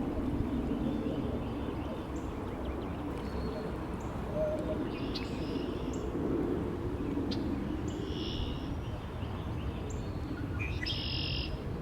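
Wind noise with birds calling over a calm lake: a short chirping call repeats about every three seconds, three times.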